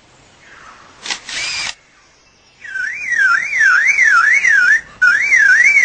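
Superb lyrebird mimicking a camera with a motor drive: a click and a short whirr about a second in. From about two and a half seconds in it mimics a car alarm: a loud tone warbling up and down about twice a second, broken once briefly near the end.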